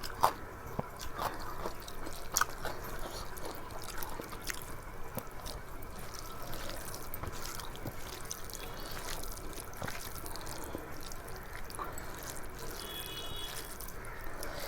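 A person eating a rice and curry meal: wet chewing and mouth noises with scattered small clicks.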